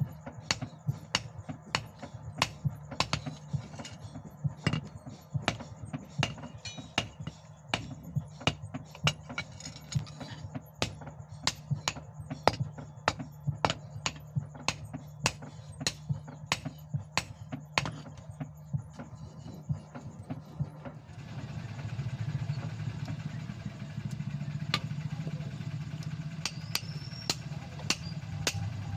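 Steady hammer blows on hot leaf-spring steel, about two to three strikes a second, over a steady motor hum that grows louder about two thirds of the way through.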